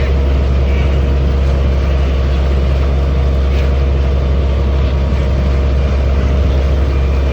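Amphibious duck boat's engine running steadily while it cruises on the water: a constant low drone with an even hum.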